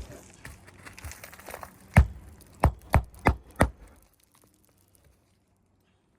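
Hammer blows on a roof shingle, likely driving a roofing nail: one hard strike, then four quicker strikes about three a second.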